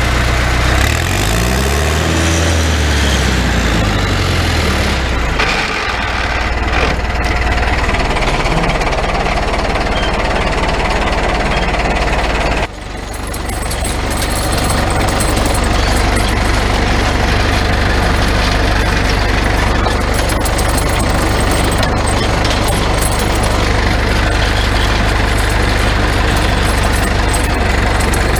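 Cummins four-cylinder turbo diesel engine in a Farmall M tractor running, its pitch swinging up and down over the first few seconds and then holding steady. The sound drops sharply for a moment about 13 seconds in, then settles steady again.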